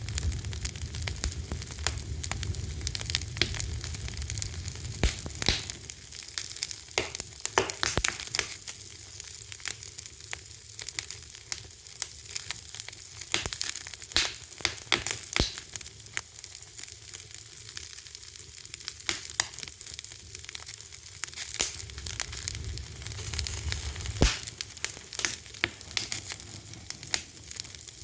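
Wood fire crackling: a dense run of sharp pops and snaps over a steady hiss, with a low rumble that fades after the first few seconds and comes back later.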